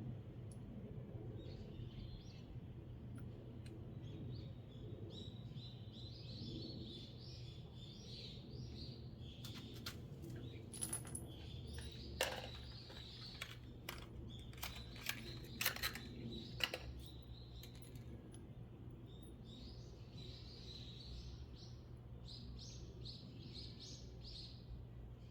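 Small birds chirping in quick repeated runs of short high notes, over a steady low hum. In the middle several sharp clicks and knocks stand out, the loudest sounds.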